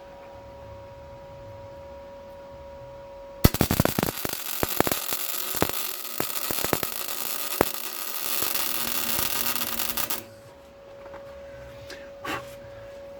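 Electric arc welding on thick metal: a sputtering, crackling weld with many sharp pops, starting about three seconds in, steadying for its last couple of seconds and cutting off after about seven seconds. A steady electrical hum is heard before and after the weld.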